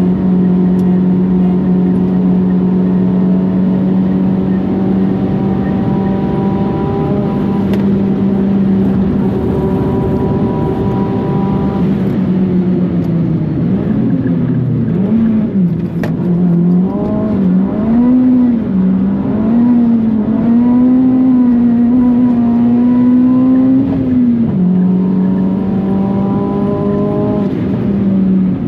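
Mitsubishi Colt R's big-turbo four-cylinder engine under load at steady high revs for about twelve seconds, then rising and falling repeatedly with throttle and gear changes, then holding steady again before dropping near the end.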